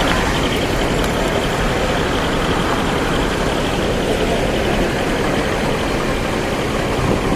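Heavy trucks' diesel engines running in a steady, loud din of engine noise.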